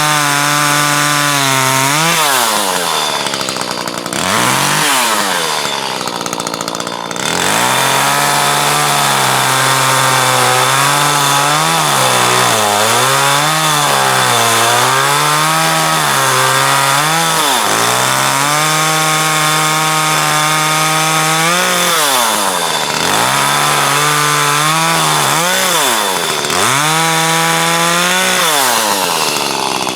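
Chainsaw running hard while cutting a log. Its engine note sags and wavers as the chain loads in the wood, and drops briefly about seven times as the throttle eases.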